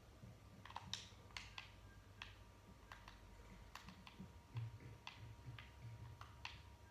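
Faint, irregular clicks and ticks, about a dozen over several seconds, over a low steady hum.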